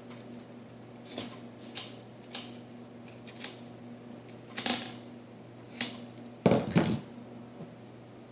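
Scattered light clicks and taps of small tools and parts being handled, with a louder, roughly half-second scrape or rustle about six and a half seconds in, over a faint steady low hum.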